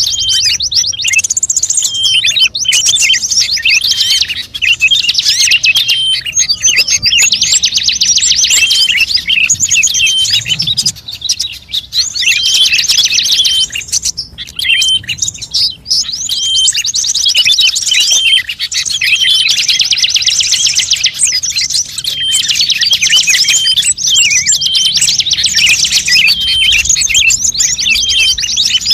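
Rapid, high-pitched songbird chirping and twittering, dense and nearly continuous with a few brief pauses: a bird-luring call recording.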